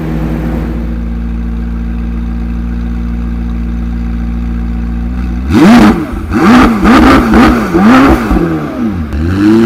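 McLaren 765LT's twin-turbocharged V8 idling steadily, then revved in a quick run of blips from about five and a half seconds in, about two a second, the pitch rising and falling with each rev.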